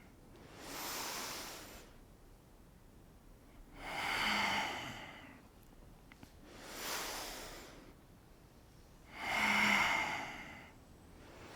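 A person breathing slowly and audibly through the practice, four long breaths in and out about every three seconds, the second and fourth louder.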